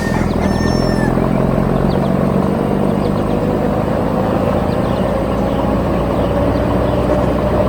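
Heavy construction vehicle's diesel engine running steadily at a low rumble, a faint tone rising slowly in pitch over it.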